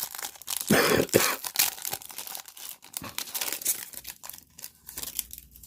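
Foil trading-card pack wrapper being torn open and crinkled by hand, a rapid run of crackles with a louder tear about a second in, easing off near the end.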